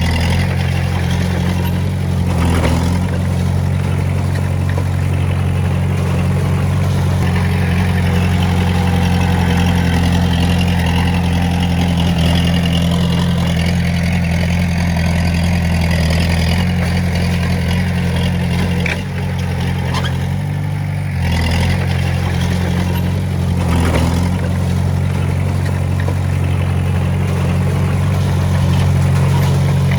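Heavy diesel engine of an earthmoving machine running steadily at an even speed, with a few sharp clanks and knocks scattered through and one brief dip in the engine note about two-thirds of the way in.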